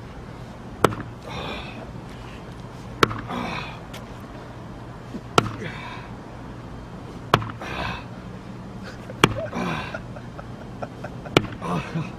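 Axe striking a log being split for firewood: six hard blows about two seconds apart, each followed by a heavy breath from the person swinging.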